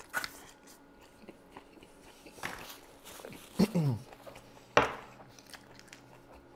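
Close-miked chewing and crunching of food, with a few crisp bites and clicks. A short falling hum from the eater comes a bit past halfway, and a sharp crunch follows about a second later.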